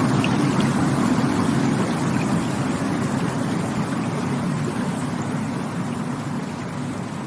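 Rushing water, a steady deep rush of flowing water that slowly grows quieter.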